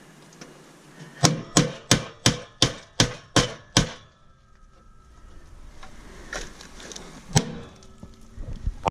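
A quick run of eight hard hammer blows on a piece of scrap metal, about three a second, struck to break it apart. Lighter knocks follow, then one more hard blow near the end.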